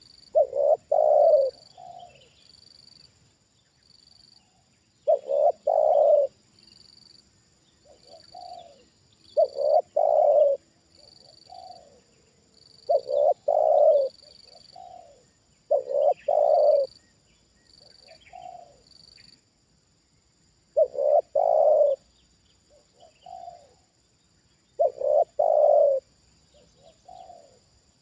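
Spotted dove cooing, repeating its short phrase of several coos about every four seconds.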